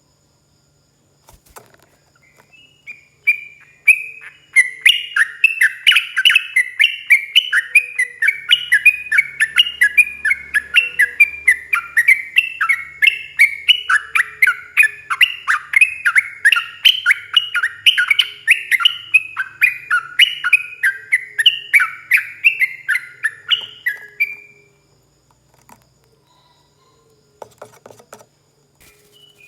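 Yellow-vented bulbul (trucuk) singing one long, unbroken run of quick bubbling notes, about four a second, for some twenty seconds; it starts a few seconds in and stops a few seconds before the end.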